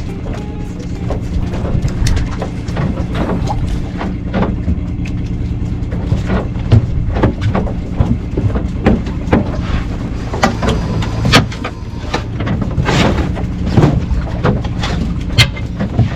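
A fishing boat's engine running steadily, with frequent sharp knocks and clanks over it.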